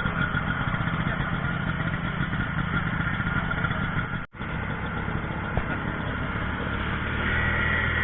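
An engine running steadily during a test run, with a brief dropout about four seconds in. Near the end it gives way to a steadier hum.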